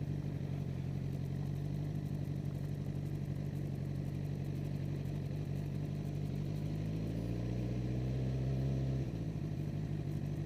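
2009 Suzuki GSX-R600 inline-four engine running at low speed. Its note rises slowly about seven seconds in, then drops suddenly about nine seconds in.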